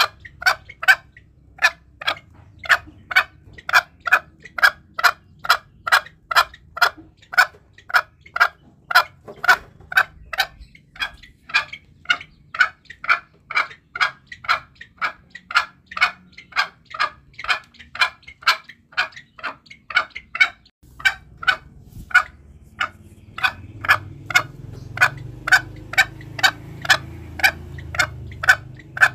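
Green junglefowl calling in a rapid, even run of short clucking notes, about two or three a second, with a short break about two-thirds through. A low background rumble rises after the break.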